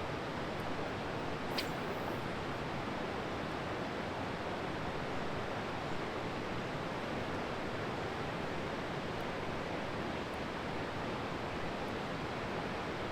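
Steady rush of a river flowing over rocks, an even hiss of running water, with a single brief click about one and a half seconds in.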